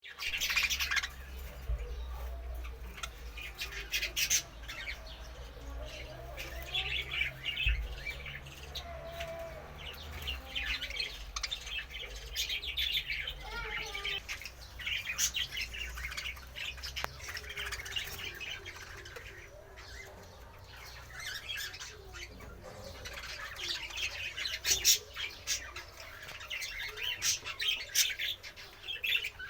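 Caged pet birds, cockatiels and lovebirds among them, chirping and squawking over one another without pause, many short calls at once with sharper squawks standing out, over a steady low hum.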